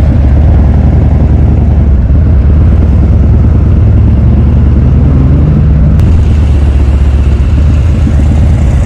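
Motorcycle engine running steadily at low revs, with a slight rise in pitch about midway.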